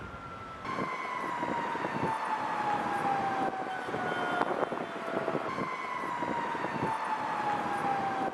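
Emergency vehicle siren sounding in a slow cycle: the tone slides steadily downward for about five seconds, then jumps back up and starts again. Street noise with scattered knocks runs underneath.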